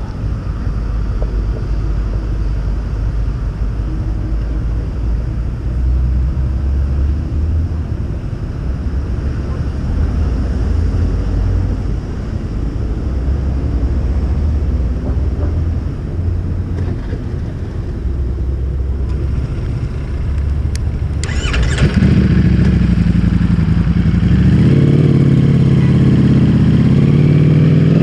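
Ducati Streetfighter V4S's V4 engine with an Akrapovic full-system exhaust, rumbling steadily at low revs. About 22 s in it turns suddenly louder and the pitch climbs as the bike accelerates.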